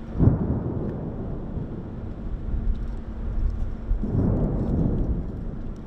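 Two rumbles of thunder from the storm: a sharp crack-like onset just after the start that rolls off over a second or so, then a longer rolling rumble swelling up about four seconds in.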